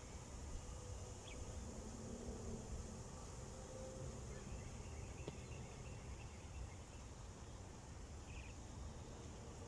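Wind buffeting the microphone, with a steady high insect drone and a few short bird chirps.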